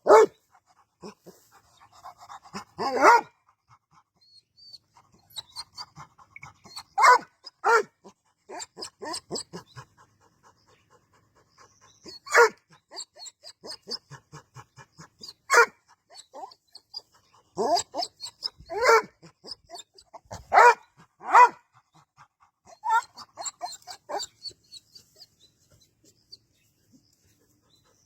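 A dog barking in single, separate barks, about a dozen spread a second to several seconds apart, with quick panting between them. The barks stop near the end.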